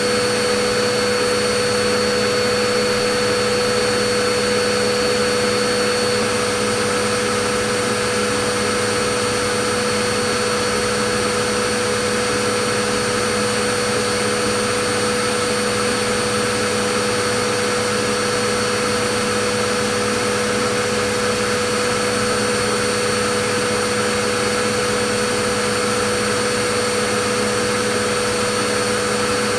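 Vacuum cleaner running continuously: a steady rush of air over a constant motor hum, with no change in pitch or level.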